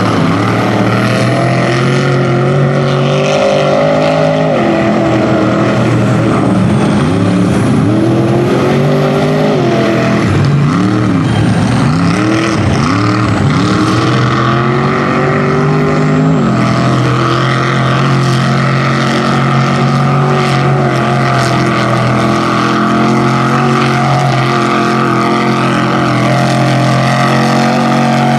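A rear-engine Dodge mud truck's engine running hard at high revs, loud and continuous. In the middle stretch the revs rise and fall again and again in quick swings, then hold steady.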